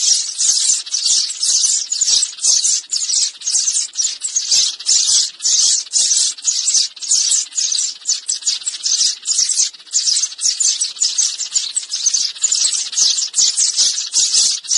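Sparrows chirping: a rapid, unbroken run of short, high chirps.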